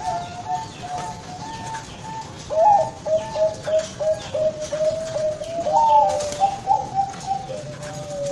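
Bangkok-strain zebra dove (perkutut) singing its cooing song: quick runs of short, clipped coos, about three to four a second, stepping between a higher and a lower pitch. Near the end comes a longer note falling in pitch.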